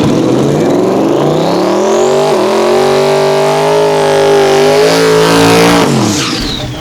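Twin-turbo 4.6 Ford modular V8 drag car at full throttle: the engine note climbs with a rising turbo whistle, drops once at a single upshift a little over two seconds in, then pulls high again. Near the end the throttle is lifted, and the engine note falls while the turbos whistle down.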